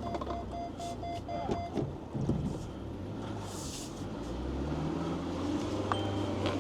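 A four-wheel-drive vehicle's engine running under load in low range with the rear differential locked, its note rising about two-thirds of the way through. A rapid electronic beeping sounds over it for the first couple of seconds.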